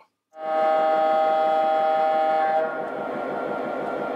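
The O gauge MTH RailKing F3 diesel model locomotive's sound-system horn blows one long chord of about two seconds. The horn stops abruptly and the train's steady rumble of running along the track continues.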